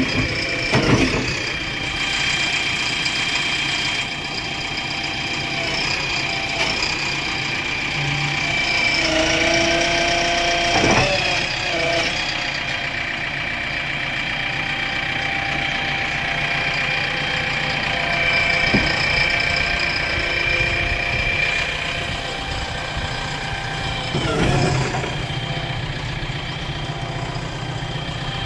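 JCB backhoe loader's diesel engine idling steadily, with a steady high-pitched whine over it. The operator says it is a bearing noise that appeared after the machine was washed.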